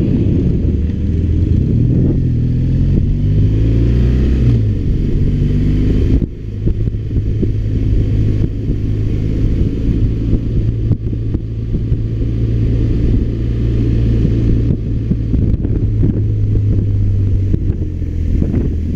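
BMW R1200RT's boxer twin engine running on the move, its pitch shifting up and down for the first few seconds. About six seconds in it dips briefly, then holds a steady note.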